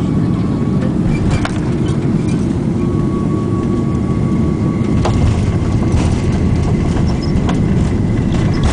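Steady low rumble of an Airbus A340 heard from inside the passenger cabin during landing, with a few short knocks and rattles.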